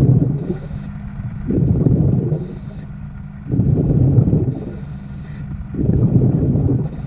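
A diver breathing underwater through a regulator in a steady cycle about every two seconds: a short hissing inhale, then a louder bubbling exhale.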